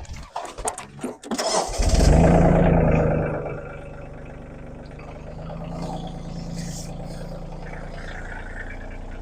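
An engine being cranked and catching about two seconds in, revving loudly for a moment, then settling into a steady idle.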